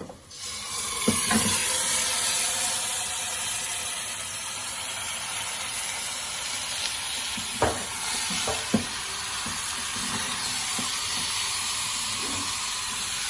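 Wet, freshly washed raw chicken pieces hitting hot oil and masala in a pan and sizzling; the sizzle starts suddenly and then holds steady. A few sharp knocks of utensils against the pan come through it.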